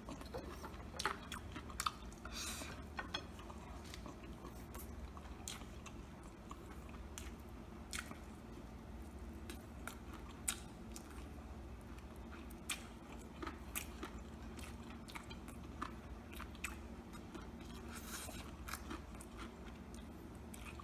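A person chewing and biting crispy breaded fried chicken close to the microphone, with many small, sharp crunches scattered throughout, over a faint steady hum.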